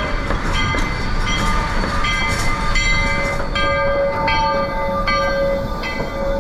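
Steam locomotive's bell ringing at a steady pace, about three strikes every two seconds, as the engine comes up to the train; a steady high tone joins in about halfway.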